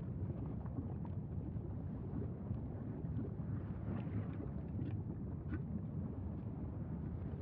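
Steady low rumbling noise with no pitch or rhythm, like wind buffeting the microphone, with a few faint short high sounds near the middle.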